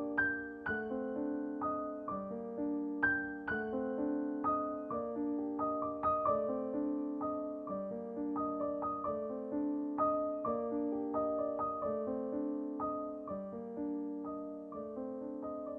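Background piano music: a calm melody over steady chords, notes struck a few times a second.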